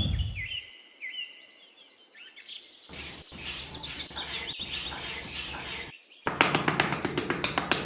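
Birds chirping in short, falling calls over a soft outdoor ambience, busier and higher from about three seconds in. Music fades out at the start, and music with a quick, even beat comes in near the end.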